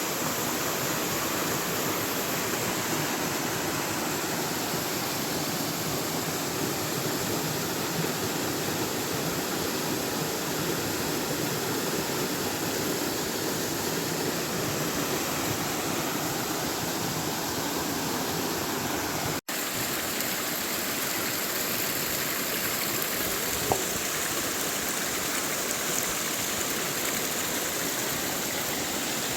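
River water flowing in a steady rush. The sound cuts out for an instant about two-thirds of the way through, then carries on.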